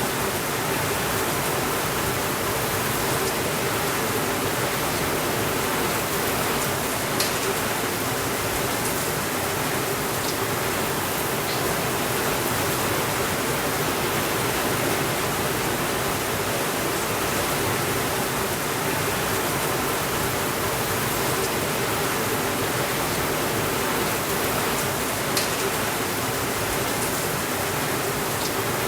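Heavy rain on a window, a steady even hiss, with a few isolated sharp clicks, the clearest about seven seconds in and a few seconds before the end.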